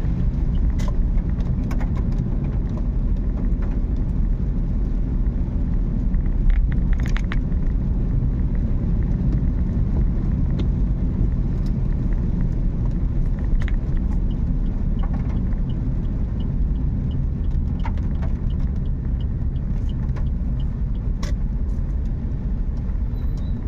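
Car driving, with a steady low rumble of engine and road noise. Scattered sharp clicks and taps come through it, and a faint ticking at about two a second runs for several seconds around the middle.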